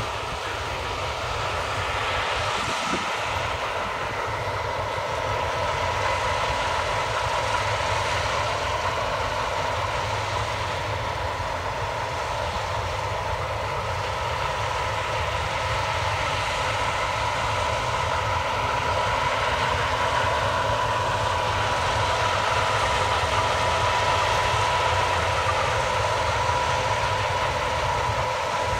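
Case combine harvester running steadily while harvesting barley: a continuous mechanical drone with a low rumble and a high whine held on one pitch.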